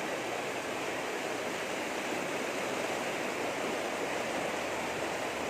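Heavy rain pouring steadily onto a flooded road, a dense even hiss with no let-up.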